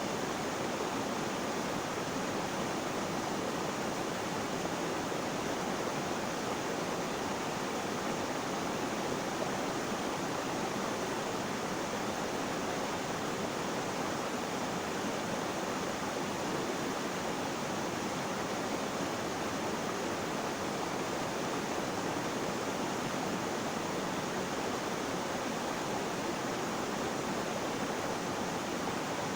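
Flowing water rushing in a steady, even wash with no breaks or changes.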